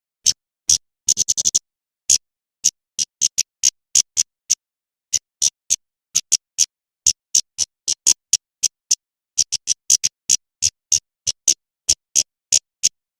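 Female kemade bird calling: a run of short, sharp, high chip notes, about two or three a second with a quick flurry about a second in. It is the female's call, used as a lure to draw male kemade birds.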